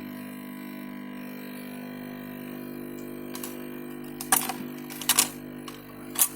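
Steady low hum with a few sharp clicks and knocks from hardware being handled, about four of them in the second half.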